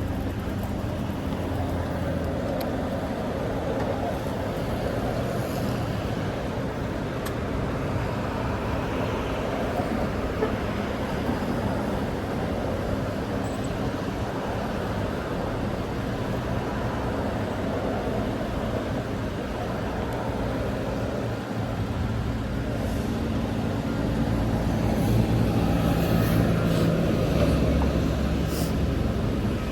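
Steady street traffic noise, with a vehicle's low engine hum growing louder as it passes near the end.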